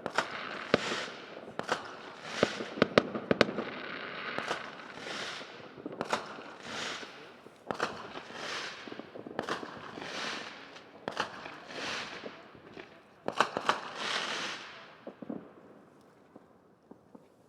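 Fireworks going off: a string of sharp bangs and cracks, then hissing, crackling bursts about once a second, dying away near the end.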